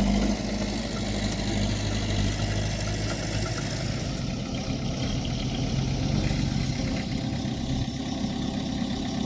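Diesel engine of heavy earthmoving equipment running steadily, its engine note shifting slightly about four seconds in and again near seven seconds.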